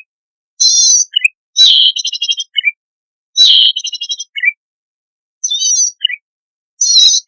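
Recorded song of a cici padi (zitting cisticola) played on repeat as a bird lure. About five short, high, buzzy warbling phrases, each followed by a few lower chirps, come roughly every one to two seconds with dead silence between.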